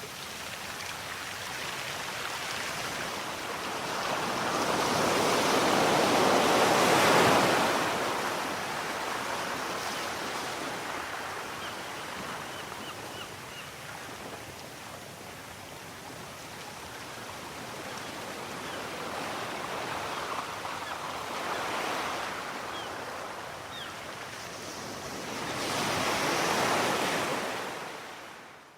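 Sea surf: waves washing onto the shore in a continuous rushing noise. Two larger waves swell and break, about five to seven seconds in and again near the end, before the sound fades out.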